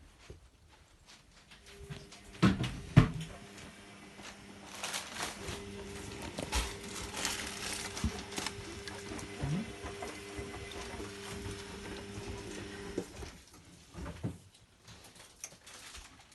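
Zanussi Lindo 100 washing machine running on its cottons 40 cycle: a steady motor hum with occasional knocks and clatter, the loudest knocks about two to three seconds in.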